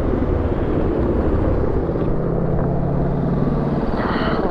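Motor vehicle engines idling in traffic: a steady low rumble, with a steadier hum rising over it for a couple of seconds in the middle and a brief hiss near the end.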